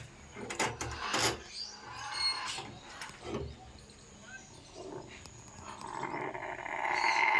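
Parrot giving several short, harsh, raspy calls, then a louder drawn-out call that builds near the end.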